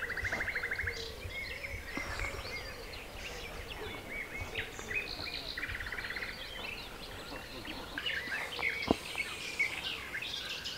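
Several songbirds singing together, a steady mix of chirps and whistles with a fast trill at the start and again about halfway through.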